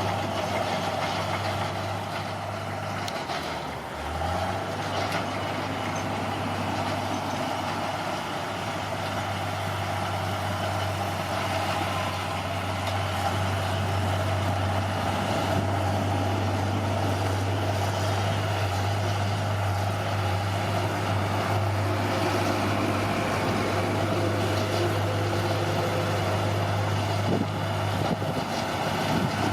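Bulldozer's diesel engine running steadily, with a brief dip in its note about four seconds in.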